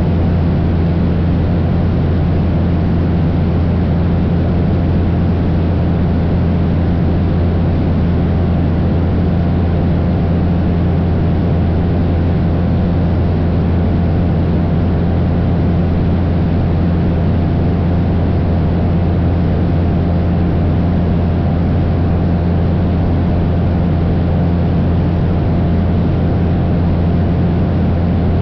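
Cessna 172's piston engine and propeller droning steadily in level flight, a constant low hum with a steady tone over a rushing noise.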